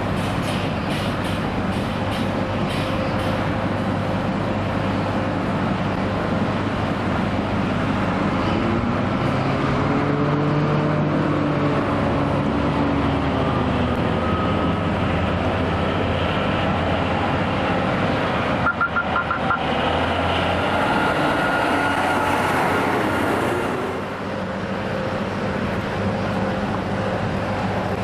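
Atlas Copco articulated underground mine truck running, a steady heavy engine drone whose pitch rises and falls in the middle as the engine revs. A quick run of short high pulses comes about two-thirds of the way through.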